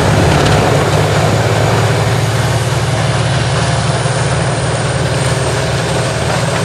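Large tracked horizontal grinder's engine running hard under load, with a dense, steady grinding noise as it chews up a stump fed in by an excavator.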